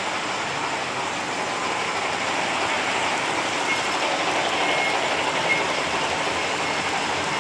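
American Flyer S gauge model freight trains rolling along the layout track: a steady rumble of wheels and motors that swells a little around the middle.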